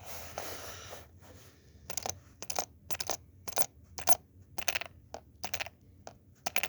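A zipper being scraped in short raspy strokes, about two a second, imitating the song of a male cicada rubbing its wings on its ridges.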